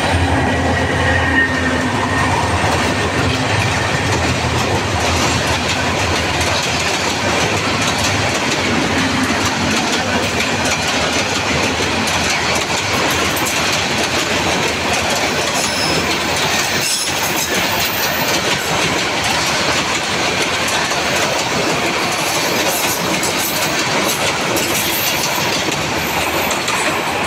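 Diesel-hauled passenger train passing close by at speed, the coach wheels clattering over the rails in a steady, loud rush.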